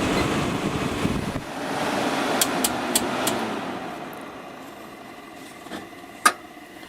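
Window air conditioner's Electrical Core and Motor Manufacturing fan motor and blower running on high, then switched off about a second and a half in and winding down. There are four quick clicks about a second later and one sharp click near the end.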